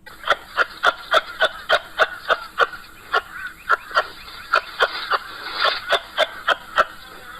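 A bird calling in a rapid, even series of short, pitched calls, about three a second, with a brief pause about three seconds in.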